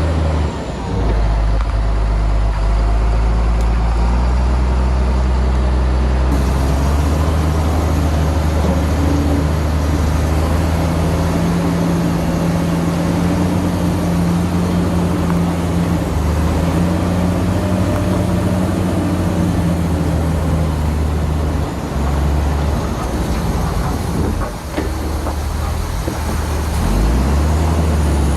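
Heavy diesel earthmoving machinery, a bulldozer and dump trucks, running loud and steady, the engine note shifting in pitch as the load changes.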